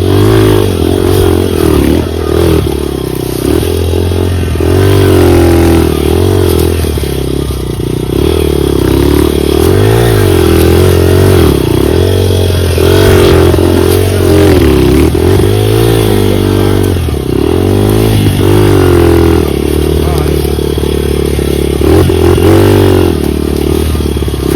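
Dirt bike engine on a trail ride, its revs rising and falling again and again as the throttle is worked, with clatter and knocks from the bike over rough ground.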